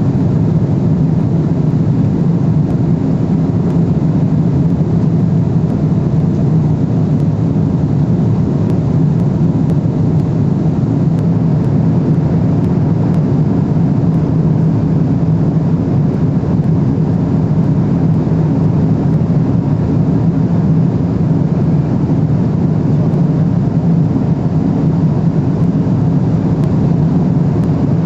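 Steady cabin noise of a Boeing 777-300ER in cruise: an even, unchanging rushing drone of airflow and engines, strongest in the low range.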